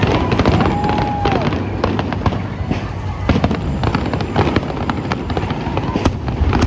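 Fireworks bursting: many sharp crackles and bangs over a continuous low rumble, with a brief whistle near the start.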